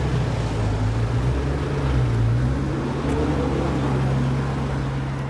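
Koenigsegg Agera R's twin-turbo V8 idling steadily.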